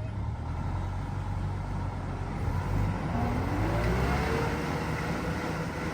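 A motor vehicle engine running, revving up midway with a rising pitch, then holding steady.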